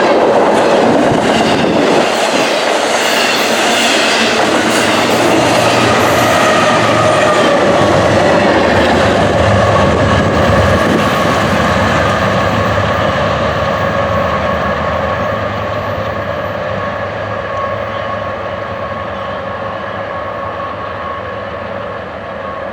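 BNSF intermodal freight train rolling past, its wheels clicking over the rail joints with a few steady high tones from the wheels, and the noise steadily getting quieter over the second half.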